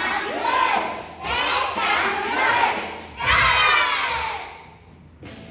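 A group of young children shouting together in loud bursts, the voices dying down near the end.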